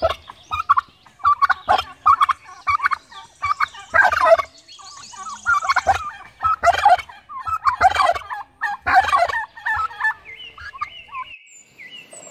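Male domestic turkey gobbling again and again in short bursts, each gobble lasting under a second. Near the end a few thin, steady high notes are heard.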